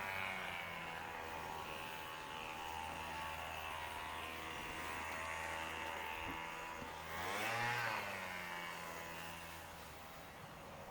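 A steady motor or engine drone with many overtones, swelling and bending up then back down in pitch about seven to eight seconds in.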